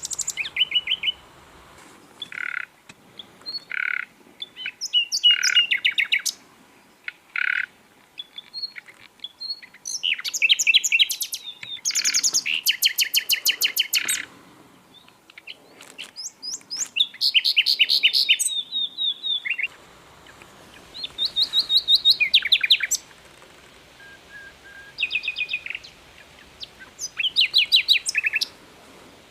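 Sikatan londo, a flycatcher, singing in a run of fast high trilled phrases of one to three seconds each, with short pauses between them.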